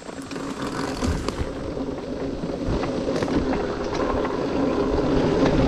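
Dirt bike engine running under throttle, getting steadily louder as the bike gets moving on the trail, with scattered knocks and clatter from the tyres and chassis over rough ground.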